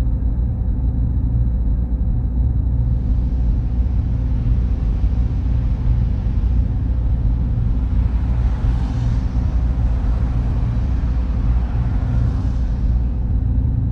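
Steady low rumble of server-room fans and air handling, with a faint hiss that comes in about three seconds in, swells twice and fades near the end.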